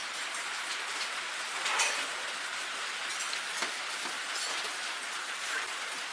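Steady hissing noise with a few light clicks and taps.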